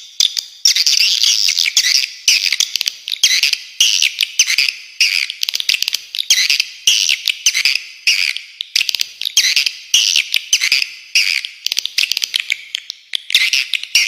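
Swiftlets twittering: a dense, unbroken stream of shrill chirps and rapid clicks.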